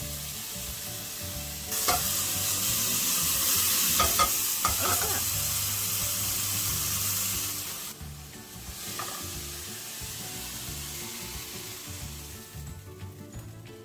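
Pieces of chicken frying in a nonstick pan, sizzling loudly from about two seconds in, with a few taps and scrapes of a spatula against the pan. About eight seconds in the sizzle dies down to a quieter hiss.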